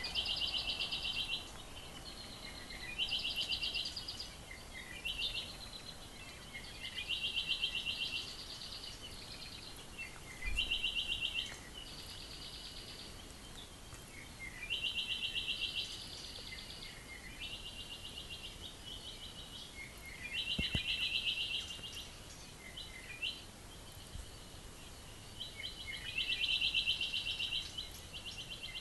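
Songbirds singing: high, fast trills about a second long, repeated every two to four seconds, with short chirps in between.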